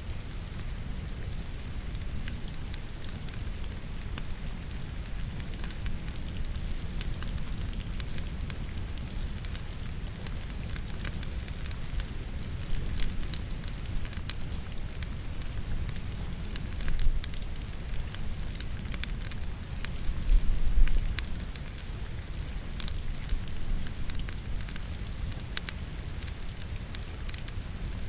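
Logs burning in a fireplace, crackling and popping with scattered sharp snaps, over a steady hiss of falling rain. A low rumble runs under it, with two louder swells around the middle.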